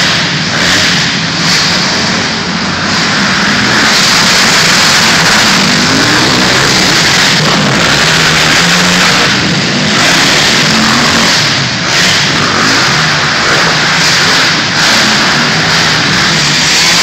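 Motocross dirt bike engines revving on a track, loud and continuous, their pitch rising and falling as the riders work the throttle.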